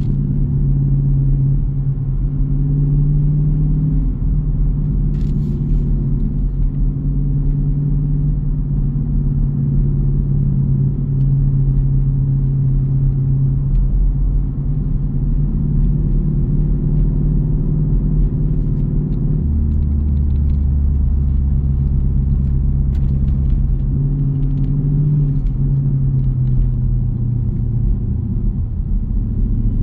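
Jeep Grand Cherokee's 5.7 Hemi V8 exhaust rumbling at a steady cruise, a continuous low drone. About two-thirds of the way through the note drops deeper for several seconds, then returns to its earlier pitch.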